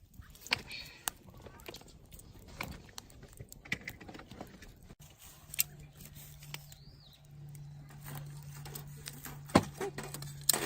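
Scattered metallic clinks and knocks of cookware and utensils being handled, one sharp knock loudest near the end. A steady low hum joins about halfway through.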